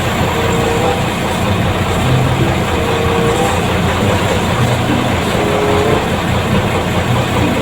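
Steady engine and road noise of a hauler truck on the move.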